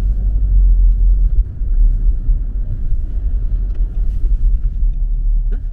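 Steady low road rumble of a car heard from inside the cabin while driving on wet roads, dropping off slightly near the end.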